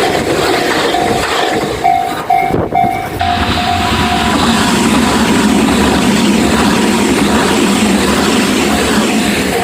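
Japanese level crossing's warning bell ringing in a repeating on-off tone, then a train passing over the crossing with wheels rumbling and clattering on the rails, drowning the bell out from about four seconds in until it is heard again near the end.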